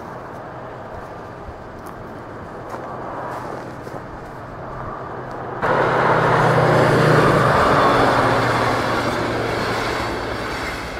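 A diesel-hauled passenger train: first the steady drone of the diesel locomotive at work, then, about halfway through, a sudden switch to the much louder rumble of coaches passing close by over a level crossing, which slowly fades toward the end.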